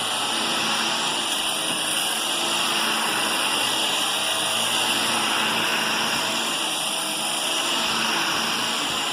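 Vacuum cleaner running steadily over carpet, a constant whine and rush of air.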